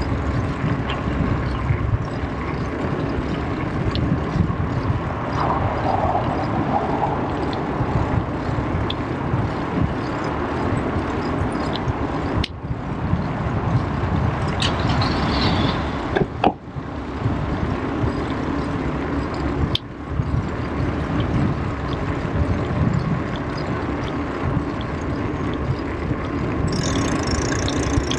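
Wind buffeting the microphone and tyre noise from riding a bicycle on the road: a steady, loud rushing that is heaviest in the low range, with a few faint clicks.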